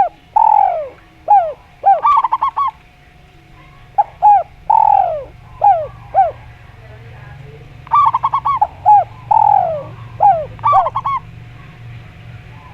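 Spotted dove and zebra dove cooing. Three phrases come about four seconds apart, each a long falling coo, then a few short falling notes and a quick run of higher notes.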